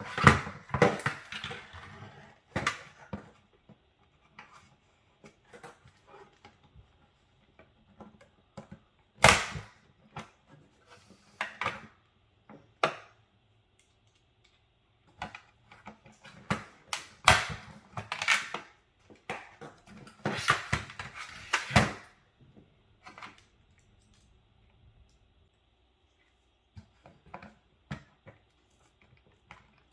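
Irregular clicks, taps and clatter of plastic and metal computer-case parts being handled and pried during a desktop PC teardown, coming in clusters with short pauses between and thinning out near the end.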